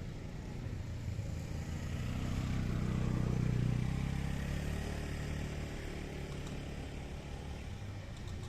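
A motor vehicle's engine passing by, growing louder to a peak about three and a half seconds in and then fading away.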